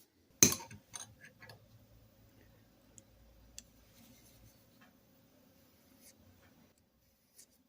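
A sharp click about half a second in, then faint, scattered scratching and ticking of a pen marking out the bevel lines on a steel hammer head.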